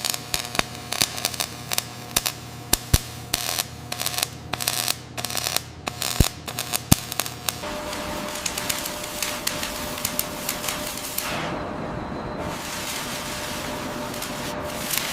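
Rapid, irregular clicking and tapping over a steady machine hum, giving way about eight seconds in to a steady hiss.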